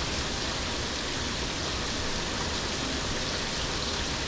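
Ground meat sizzling steadily in a frying pan full of its own rendered fat, an even hiss.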